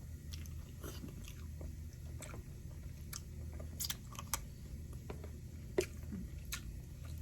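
A person chewing food close to the microphone: scattered small crunchy clicks and wet mouth sounds at irregular moments over a low steady hum.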